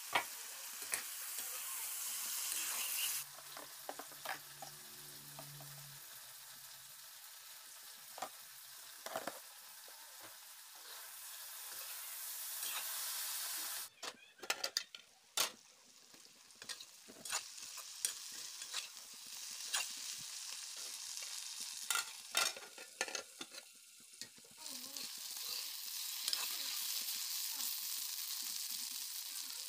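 Vegetable pieces frying in hot oil in a metal kadai, a steady sizzle that swells and fades, with sharp clinks of a metal spatula against the pan through the middle stretch.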